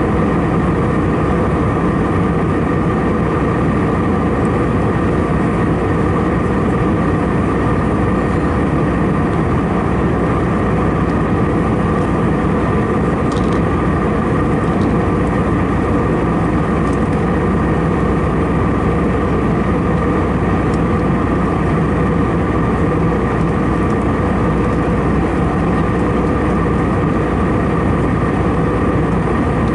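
Steady cabin noise of an Airbus A319-111 in flight: the constant hum of its CFM56-5B turbofan engines and the rush of airflow, with several steady tones over it. A few faint ticks come near the middle.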